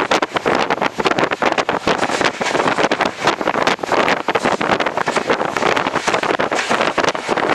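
Passenger train running at speed, heard from on board: wind rushing over the microphone with dense, continuous rattling and clattering from the coach and the rails.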